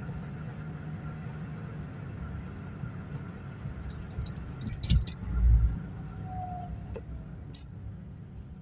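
Ford Fiesta XR2's carburetted four-cylinder engine running steadily at cruise, heard from inside the cabin with road noise. There is a thump and a brief loud low rumble about five seconds in, and the drone gets quieter near the end.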